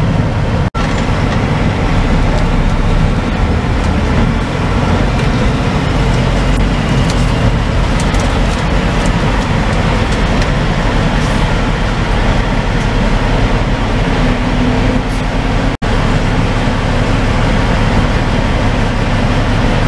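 Semi truck's diesel engine running steadily, heard from inside the cab as the truck rolls up to a toll booth. The sound drops out briefly twice.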